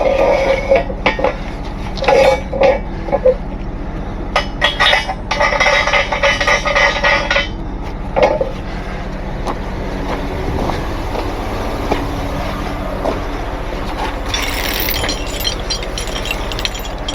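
Steel tow chains clinking and rattling as they are handled and wrapped around a truck axle, with a dense burst of clatter about five to seven seconds in, over a steady low hum.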